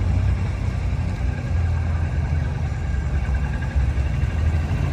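Hot rod engines idling with a steady, uneven low rumble.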